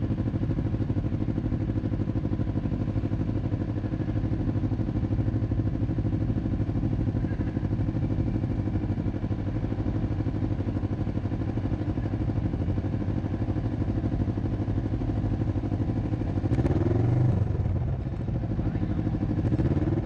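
Motorcycle engine running steadily at low speed, with a short rev that rises and falls about three-quarters of the way through and another small rise near the end.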